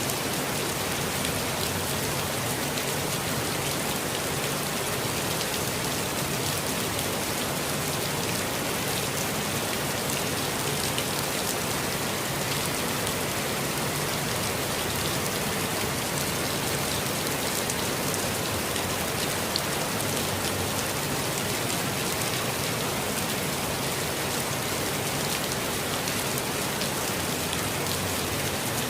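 Steady, gentle rain falling in a forest, a dense even patter of many small drops.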